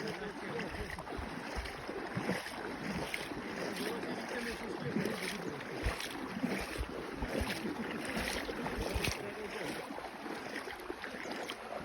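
River water rushing and splashing steadily, with wind buffeting the microphone in irregular low thumps.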